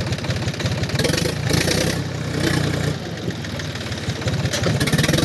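Diesel tractor engine running with a steady, rapid low firing pulse. It swells louder about a second in and again near the end.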